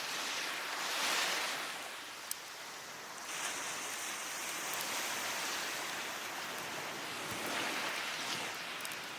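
Sea waves breaking and washing up the beach: one surge peaking about a second in, then a longer wash from about three seconds on. A single sharp crackle from the wood fire about two seconds in.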